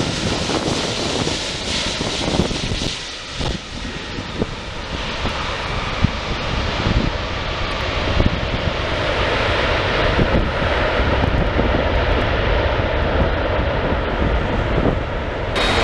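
Jet engines of a wide-body airliner passing at the airfield: a continuous rush of engine noise with a faint high whine at first, dipping briefly about three seconds in, then building and holding full for the rest.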